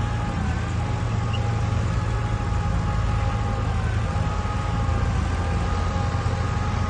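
Heavy diesel earthmoving machinery running steadily under load, a deep engine hum with a steady high whine over it that dips briefly twice.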